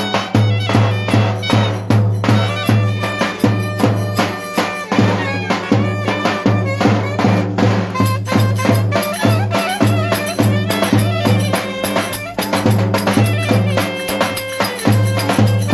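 Instrumental Turkish folk dance music played by a live band: a steady, driving drum beat under a reedy wind-instrument melody.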